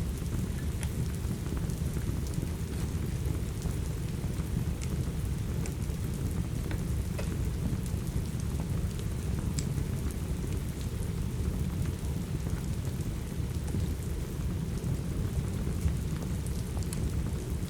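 Steady rain with a deep, even low rumble underneath, mixed with the scattered small pops and crackles of a wood fire in a fireplace.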